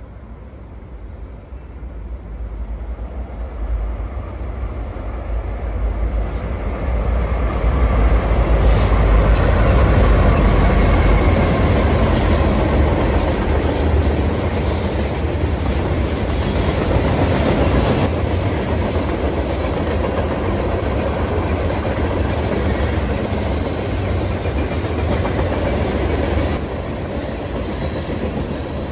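Norfolk Southern train approaching and passing close by. A deep diesel locomotive rumble builds and peaks about ten seconds in, then eases. After that the cars roll past with a steady rolling clatter of wheels on rail.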